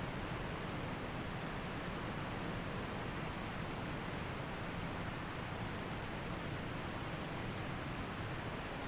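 Waterfall and creek water rushing in an even, unbroken noise.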